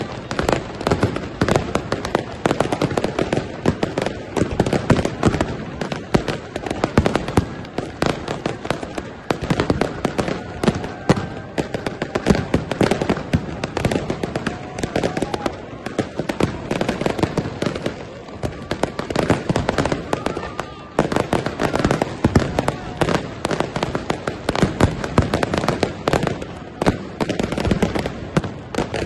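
Fireworks and firecrackers going off in a dense, unbroken run of bangs and crackles, many per second, as aerial shells burst overhead.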